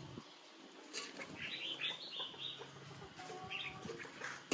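Caged red-whiskered bulbul calling: a quick run of short, high chirping notes about a second and a half in, then a brief call near the end.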